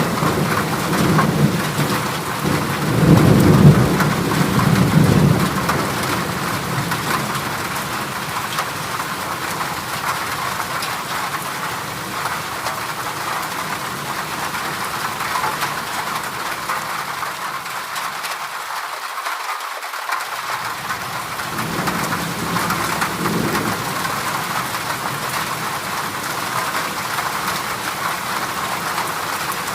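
Heavy rain drumming steadily on a corrugated zinc sheet roof. A louder low rumble swells a few seconds in and fades by about six seconds, and a weaker one returns about two-thirds of the way through.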